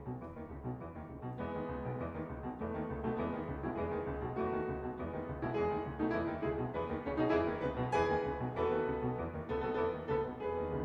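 Background piano music, a run of struck notes and chords that grows a little louder about a second and a half in.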